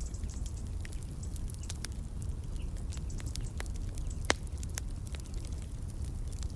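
Wood fire crackling, with many small irregular pops and snaps over a low steady rumble. One sharper, louder pop about four seconds in.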